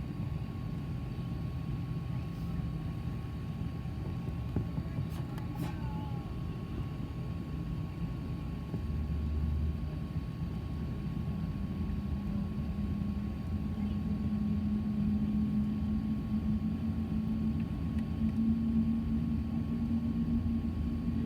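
Airbus A380-800 with Rolls-Royce Trent 900 engines heard from inside the cabin behind the wing: a low steady rumble under a thin high tone, with a humming tone that comes in about halfway and rises slightly in pitch.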